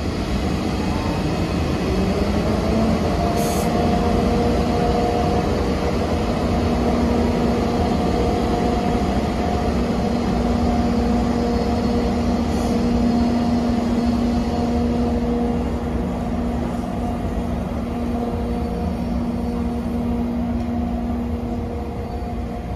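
EF64 electric locomotive hauling a train of old-type passenger coaches pulling out of a station. It makes a steady multi-tone hum that rises slightly in pitch over the first few seconds, over the rumble of the coaches rolling past.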